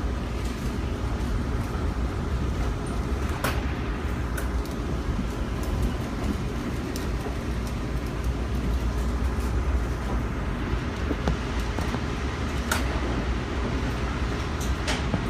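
Steady low rumble of a moving passenger train heard from inside the car, with a few sharp clicks about three and a half seconds in, about twelve and a half seconds in and near the end.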